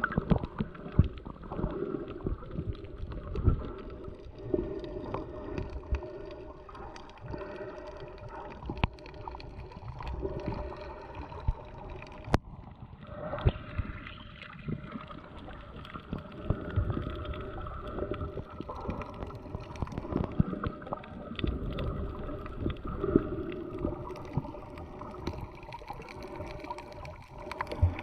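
Muffled seawater sloshing and gurgling around a camera at or just under the surface, with irregular low thumps and knocks and a faint steady hum. A sharp click comes about twelve seconds in.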